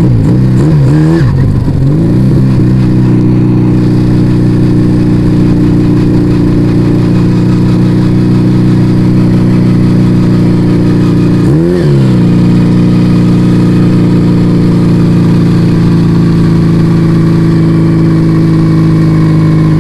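Yamaha Vega ZR's single-cylinder four-stroke engine running through an aftermarket Arrow exhaust while riding at a steady speed, its note dipping briefly and coming back up in the first couple of seconds and again about twelve seconds in, as with a throttle lift or gear change.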